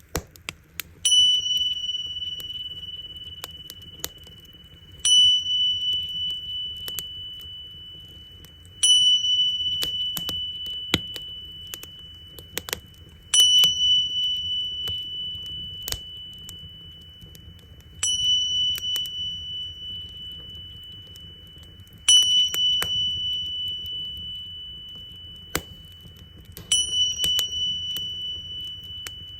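Tingsha cymbals struck together seven times, about every four seconds, each strike ringing on in a clear high tone that slowly fades. Underneath, a campfire crackles with scattered sharp pops over a low rumble.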